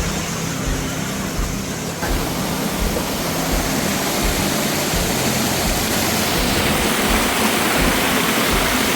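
Waterfall pouring steadily: a dense, even rush of falling water with a low rumble beneath, growing slightly louder and brighter about two seconds in.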